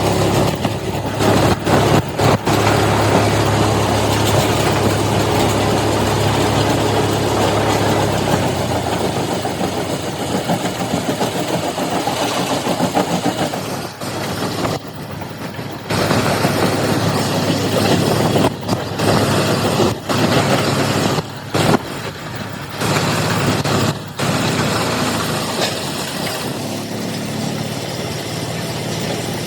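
An engine running at a steady idle, cutting off abruptly for short moments several times in the second half.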